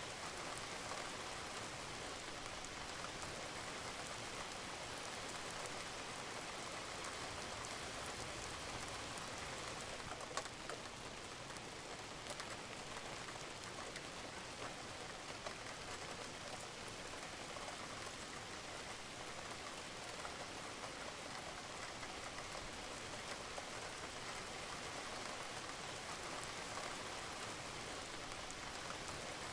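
Steady rain falling on a roof, an even patter with scattered individual drops ticking.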